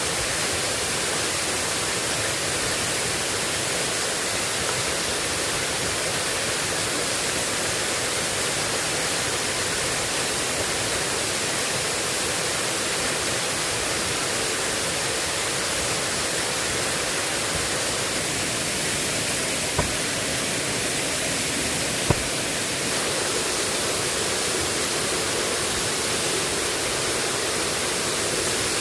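Heavy rain falling steadily, a dense even hiss, with a couple of sharp taps about two-thirds of the way through.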